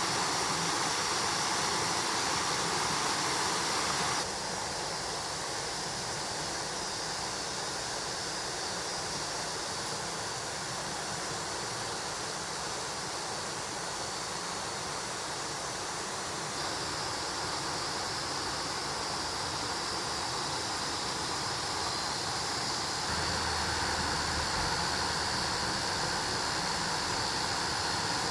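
Mountain stream water rushing over rocks, a steady even rush. Its level and tone shift abruptly about four seconds in, again about midway, and once more near the end.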